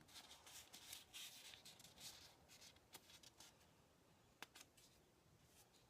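Near silence with faint rustling of the paper pages of a handmade journal being handled, and a few light ticks.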